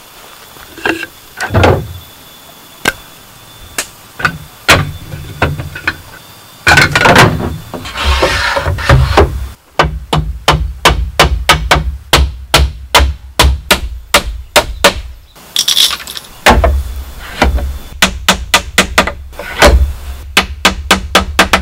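Hammering on bamboo: scattered blows at first, then a fast run of even strikes at about four a second for several seconds, then more blows.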